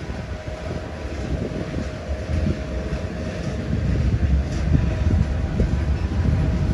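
Slow freight train of boxcars and tank cars rolling past: a steady low rumble of wheels on the rails with irregular knocks and rattles, growing somewhat louder about halfway through.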